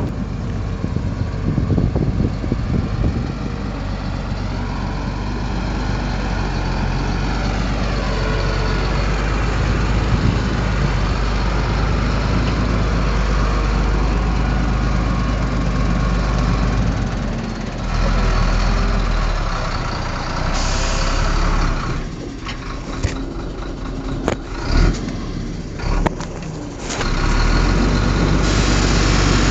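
Heavy diesel engine of earthmoving machinery running, its note shifting up and down, with a few sharp knocks later on.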